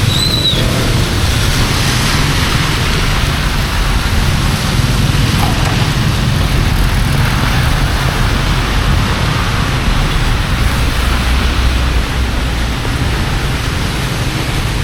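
Heavy rain pouring steadily, over a continuous low rumble.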